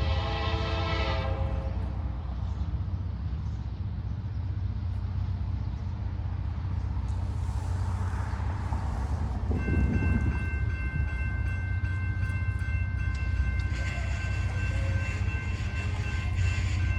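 CSX freight train led by an EMD SD70MAC locomotive, a steady low engine and rail rumble. A Nathan K5LA chord horn sounds at the start and cuts off about a second in; steady high ringing tones join about ten seconds in.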